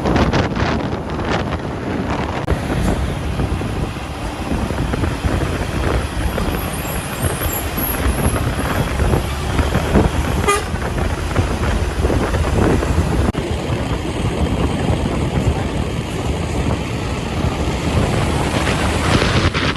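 Loaded truck driving on the road, its engine and tyres giving a steady, loud rumble mixed with wind noise on the microphone.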